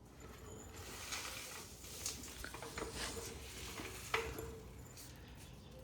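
Scattered light clicks, knocks and rustling of tools and parts being handled, with one sharper click about four seconds in.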